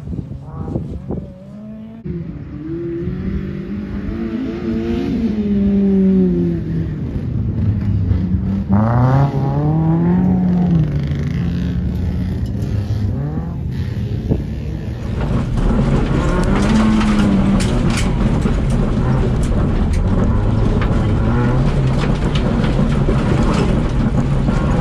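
Citroen Saxo VTS rallycross car's four-cylinder engine revving through corners, its pitch climbing and dropping over and over as the driver works the throttle and gears. About fifteen seconds in it turns louder and rougher over a steady low drone.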